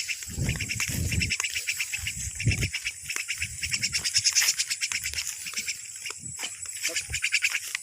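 Insects chirping in a fast, steady pulsing trill, with a few low thumps in the first few seconds.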